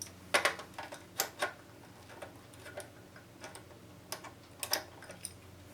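Irregular light clicks and taps of small hand tools against the plastic and metal parts of a portable radio-cassette as its cabinet is being pried open. About a dozen sharp clicks are spaced unevenly, over a faint steady hum.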